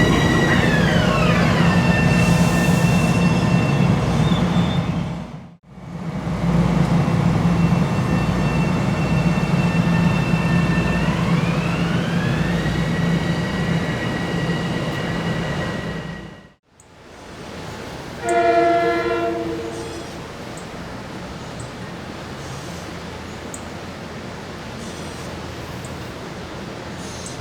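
Electric commuter train running past with a rumble and a high electric motor whine that slides down in pitch, then later climbs back up. The sound cuts out abruptly twice. About eighteen seconds in, a train horn sounds once for about two seconds, followed by a quiet outdoor hush.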